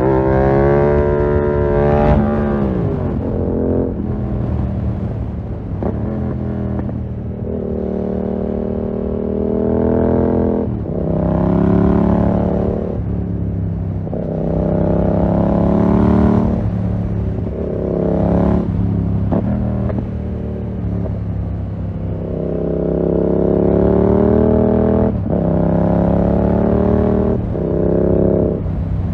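Yamaha MT-07 parallel-twin engine through a full SC-Project 2-1 exhaust, accelerating hard with rising revs and then dropping back on gear changes or rolling off, again and again. The strongest pulls come about a third and about halfway through, and again past two thirds of the way in.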